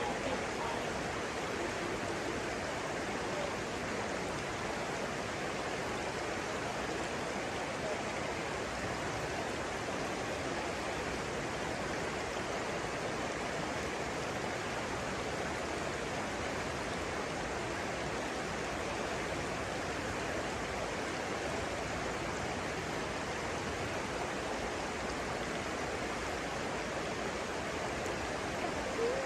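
Flowing water of a stream, a steady, even rush with no breaks.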